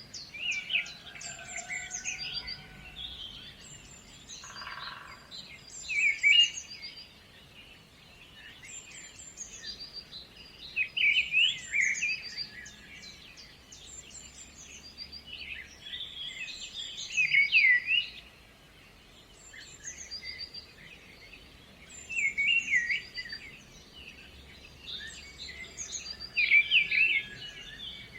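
Songbirds singing: one bird gives a loud, quick warbled phrase about every five seconds, while thin, high chirps from others run in between.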